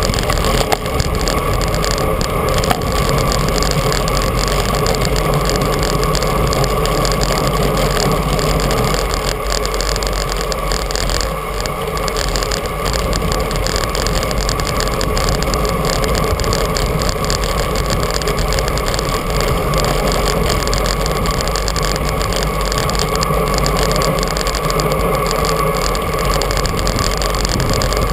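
Steady rush of wind and tyre noise on a GoPro carried on a moving bicycle, with a constant hum.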